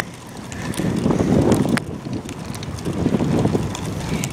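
Wind buffeting the microphone of a camera taped to a moving bicycle, swelling twice, with scattered sharp clicks.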